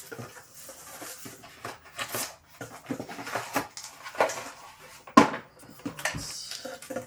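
A shipping box and its packaging being handled and opened: irregular rustles, scrapes and small clicks, with one sharp knock about five seconds in.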